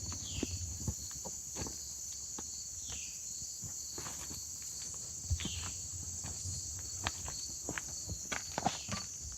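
Footsteps walking outdoors, irregular light steps and knocks, over a steady high chorus of crickets.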